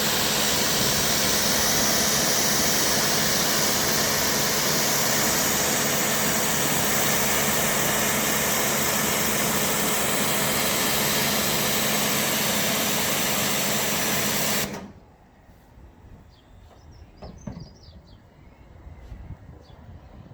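Hot-and-cold pressure washer's electric motor and pump running with a steady hum under the hiss of the lance spraying cold water; both stop abruptly about fifteen seconds in, leaving only a few faint clicks.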